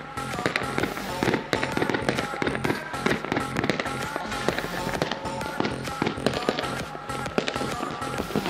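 Fireworks going off in many rapid, overlapping bangs and crackles, with music playing underneath.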